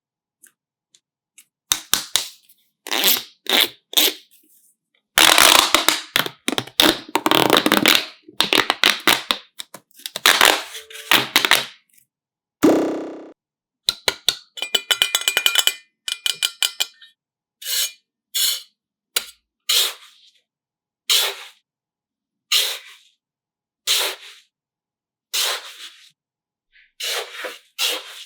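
Close-up handling sounds of soft craft material: a run of short crackling, squelching bursts with dead silence between them, then, from about 17 seconds in, single squelches at fairly even spacing, roughly one every second and a half.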